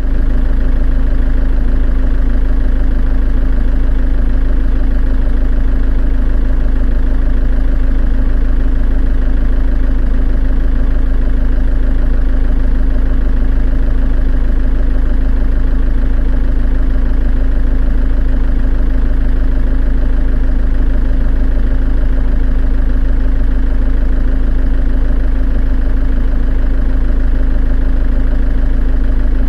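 Steady engine idling sound with a deep low rumble and a constant hum, unchanging in speed throughout.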